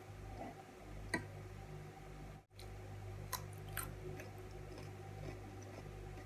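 Close-miked chewing of raw cucumber sticks, with a few short crisp clicks and crunches, over a steady low hum.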